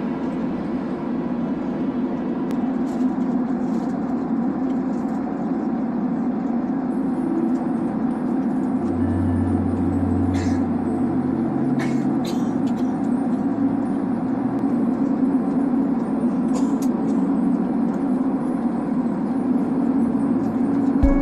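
Steady drone of a Boeing 767-300ER airliner cabin in flight, a constant rushing hum, with a few faint light clicks.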